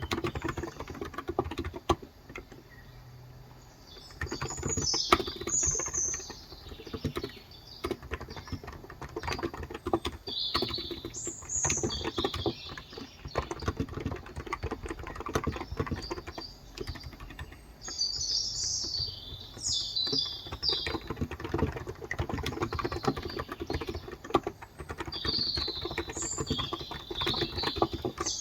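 Steady typing on a COX Endeavor electro-capacitive (Topre-style) tenkeyless keyboard with light 35 g switches, pausing briefly about two seconds in. Small birds chirp intermittently throughout.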